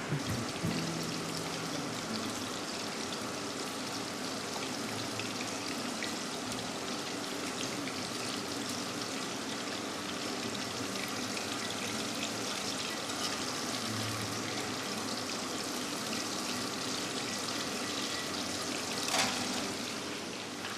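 Chicken pieces deep-frying in hot oil, a steady sizzle, with a single short click near the end.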